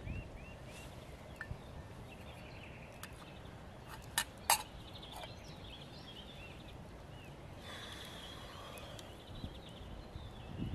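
Small woodland bird singing, a run of short, repeated arched chirps and a brief trill, over a faint steady background hiss. Two sharp clicks, the loudest sounds, come about four seconds in.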